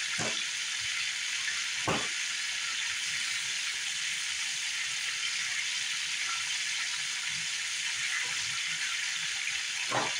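Flour-dredged cube steaks frying in oil in a cast-iron skillet: a steady sizzle, with brief louder pops just after the start, about two seconds in, and near the end.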